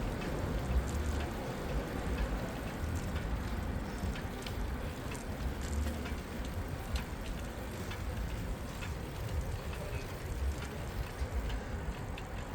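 Street ambience heard from a moving bicycle: a steady low rumble of wind and tyre noise with scattered light clicks and ticks.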